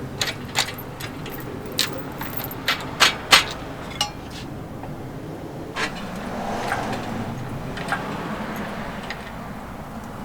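Metal chain clinking and rattling on an engine hoist, a quick run of sharp metallic clinks in the first few seconds, then fewer, with a softer steady noise from about halfway.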